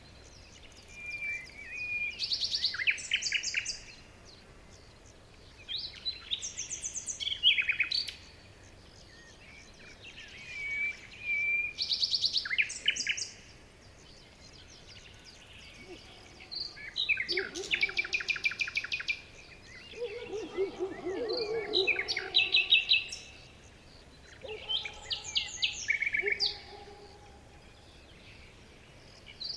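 Songbirds singing in a forest. Phrases of rapid high-pitched trills and whistles come every four to five seconds, with quiet background hiss between them. A lower-pitched warbling song joins about two-thirds of the way through.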